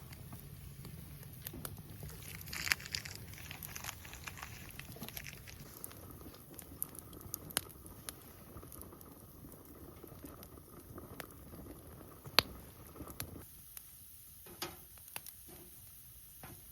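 Wood campfire crackling, with irregular sharp pops and snaps over a low steady background, and a brief rustle a little under three seconds in.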